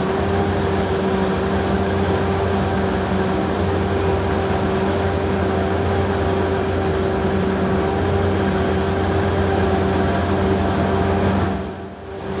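John Deere self-propelled forage harvester running steadily under load, a constant high whine over the engine's drone. The sound dips briefly near the end and comes back.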